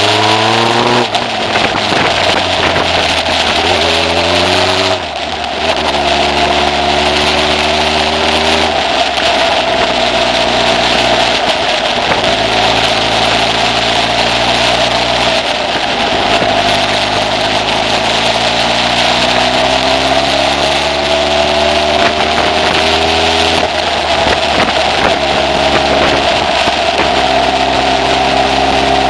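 Kawasaki ZZ-R1100's inline-four engine under way at road speed, its pitch climbing and then dropping back several times as the rider works the throttle and gears, over a steady rush of wind.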